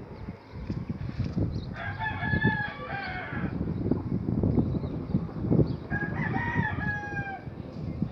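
A rooster crowing twice, each crow about a second and a half long, over a steady low rough background noise.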